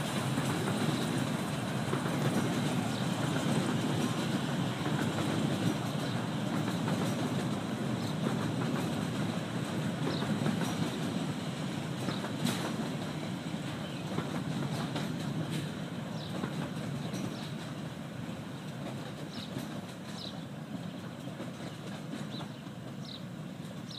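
15-inch gauge miniature railway train rolling along the track: a steady rumble of coach wheels with light clickety-clack, slowly fading as the train draws away.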